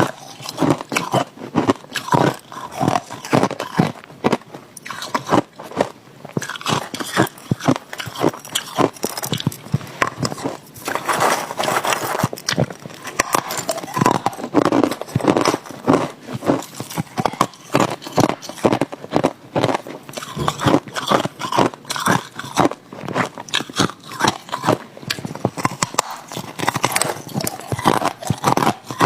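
Ice being bitten and chewed close to the microphone: a dense run of sharp, crackling crunches, several a second.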